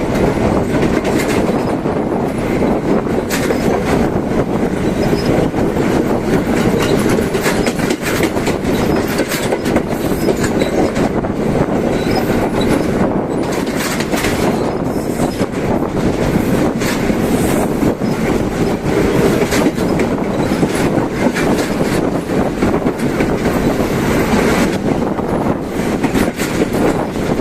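Passenger train running along the track: a loud, steady rumble of wheels and carriages with many quick clicks from the wheels over the rail joints.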